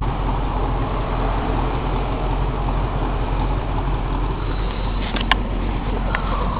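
Chevy G20 van's carbureted 305 small-block V8 idling steadily through a MagnaFlow muffler, a low even exhaust note. A short sharp click about five seconds in.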